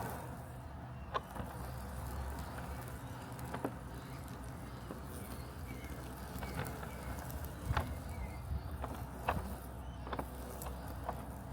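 Robotic lawn mower running with a steady low mechanical hum, with a few short sharp clicks scattered over it.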